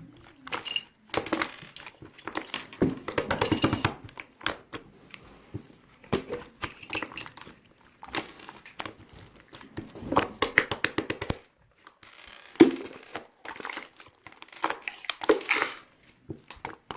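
Slime being squeezed and pressed by hand, giving irregular bursts of crackling, clicking and popping with short pauses between.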